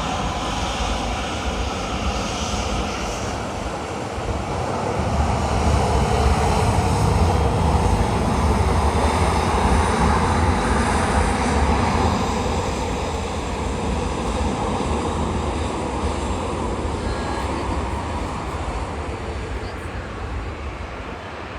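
Jet airliner's engines passing: a loud rumble that builds about a quarter of the way in, peaks, then slowly fades.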